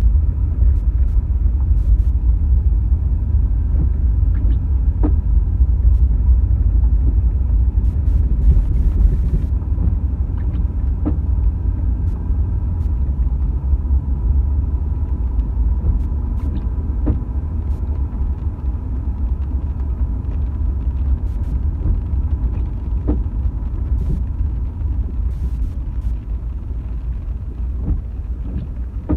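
Steady low road rumble of a car being driven, heard from inside the cabin, with scattered light ticks.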